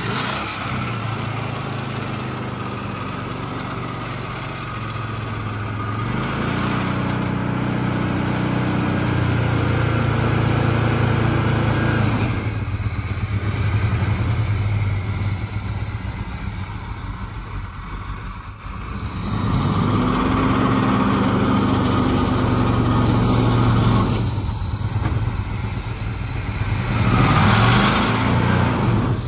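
1967 Pontiac GTO's 400 V8 running and being revved as the car is eased along, held at higher revs against dragging brakes. The revs rise in a long stretch from about 7 to 12 seconds in, drop back, rise again from about 20 to 24 seconds in, and briefly once more near the end.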